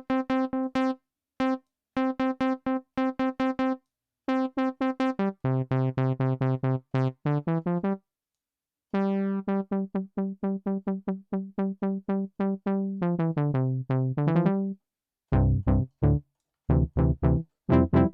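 Logic Pro RetroSynth software synthesizer playing a sawtooth-based synth-brass patch, shaped by a low-pass filter and a quick-attack, moderate-decay envelope. It plays short, punchy separate notes: first one note repeated, then lower phrases moving up and down, a brief pause about halfway, and deeper bass notes near the end.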